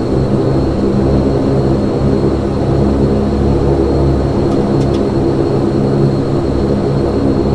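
Saab 340B turboprop engine and propeller running steadily on the ground before takeoff, heard from inside the cabin right beside the propeller: a loud, even drone with a stack of steady tones.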